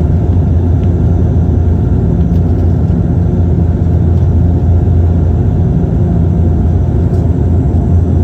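Bombardier Q400's turboprop engines and propellers running with a steady low drone, its pitch and level unchanging.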